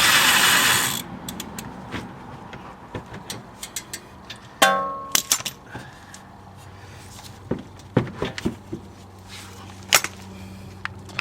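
Impact wrench running in a short burst on one of the strut's big 22 mm lower bolts for about the first second, breaking it loose. About four and a half seconds in there is one sharp metallic clang that rings on briefly, and scattered light clicks and knocks of tools on metal.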